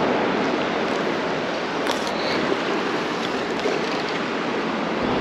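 Creek water running in a steady rushing wash, with a couple of faint small clicks.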